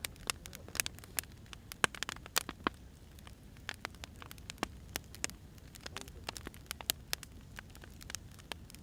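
Firewood burning, crackling with irregular sharp pops over a low steady rumble.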